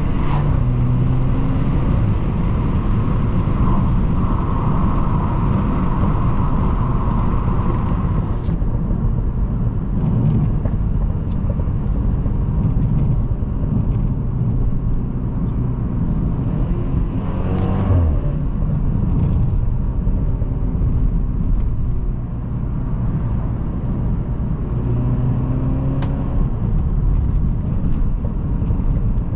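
BMW F30 3 Series with an aftermarket downpipe, M Sport muffler and bootmod3 stage 1 tune, heard from inside the cabin while driving: a steady engine drone under road noise. The engine pitch rises and falls around the middle and again near the end.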